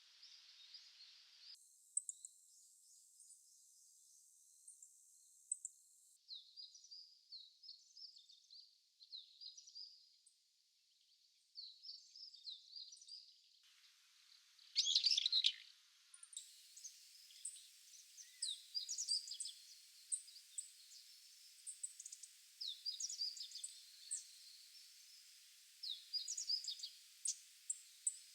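Short, high chirps and calls of small wild birds across several edited clips, with a louder harsh call from a brown-eared bulbul about halfway through. In the last part, short repeated call notes come again and again, matching a black-faced bunting.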